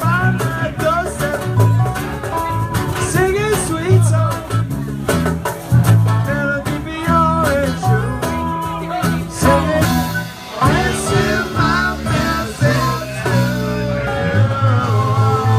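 Live band playing a reggae groove: electric guitar, bass and drums, with a steady bass pulse.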